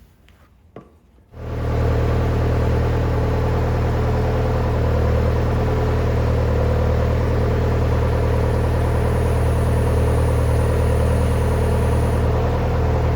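A motor or engine starts abruptly about a second in and runs loud and steady, with a deep even hum.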